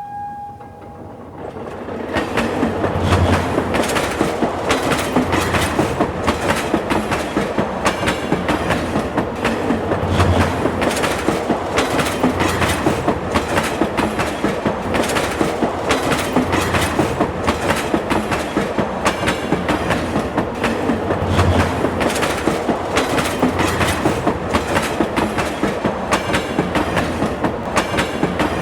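Train running on the rails, its wheels clicking rapidly and steadily over the rail joints. The sound builds up over the first two seconds, then holds.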